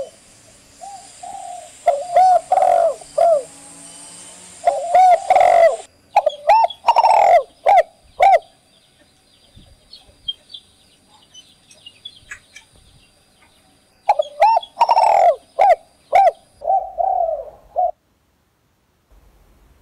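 Spotted dove cooing in repeated phrases. After about eight seconds there is a pause of some five seconds with only faint small-bird chirps, then the cooing starts again and stops about two seconds before the end.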